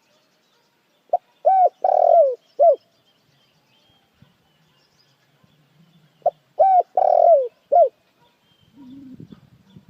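Puter dekukur dove cooing: two phrases about five seconds apart, each a quick run of four notes, one of them longer than the rest. A faint low rumble comes near the end.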